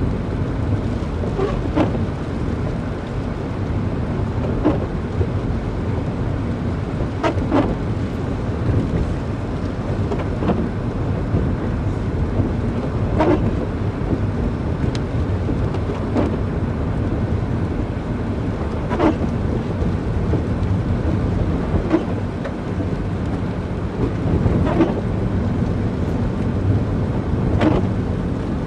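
Car driving along a road: a steady low rumble of engine and road noise, with a short sharp click or squeak repeating, in the second half about every three seconds.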